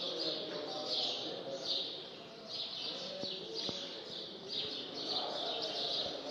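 A flock of small birds chirping continuously, a quick run of short high chirps two or three a second, over a faint murmur of voices.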